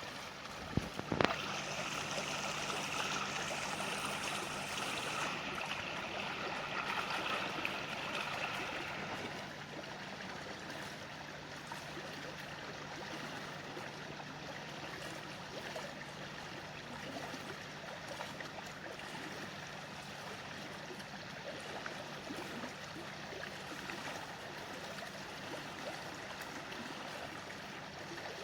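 Running water of a small stream, a steady rushing trickle, somewhat louder and brighter for the first several seconds. A couple of sharp knocks about a second in.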